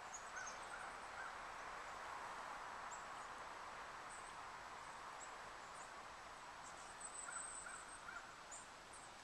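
Faint wild bird calls: a few short lower calls near the start and again near the end, and thin high chirps scattered between, over a steady outdoor background hiss.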